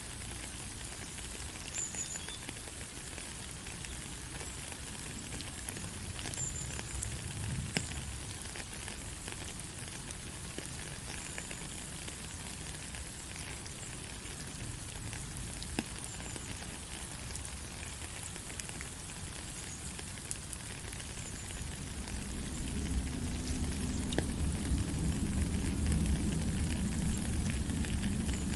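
Steady rain with many scattered drops ticking and pattering on surfaces. A low rumble swells up about three-quarters of the way through, and faint short high chirps come every few seconds.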